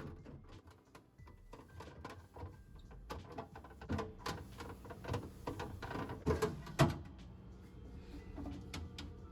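Irregular knocks and clatter of items being handled while a fridge is cleaned out, with a sharper knock about two-thirds of the way through.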